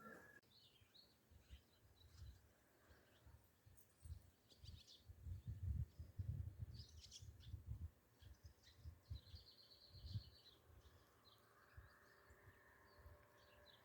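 Faint bird chirps and a short trill, scattered over low muffled bumps.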